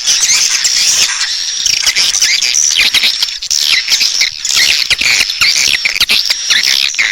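Swiftlet call recording: a dense, continuous chorus of many edible-nest swiftlets twittering and chirping, with high quick chirps overlapping one another. It is the lure sound played to call swiftlets into a swiftlet house and keep them roosting there.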